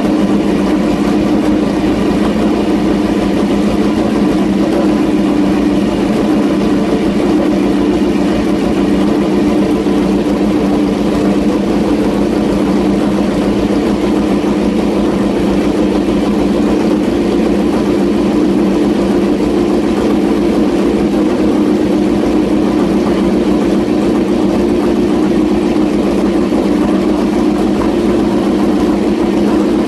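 Honda RC213V MotoGP bike's 1000cc V4 engine running steadily at one constant pitch, without revving.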